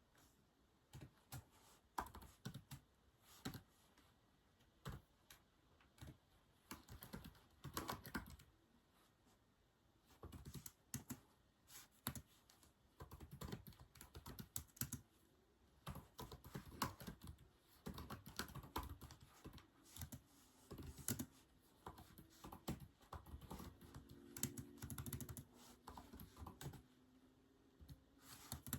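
Typing on a keyboard: irregular runs of key clicks broken by short pauses.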